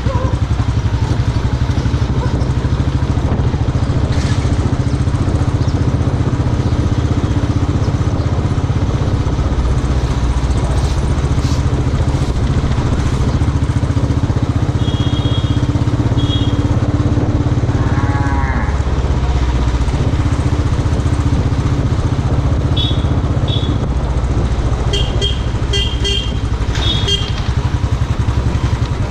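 Royal Enfield motorcycle engine running steadily on the move, with traffic horns honking in short beeps around the middle and several more times near the end.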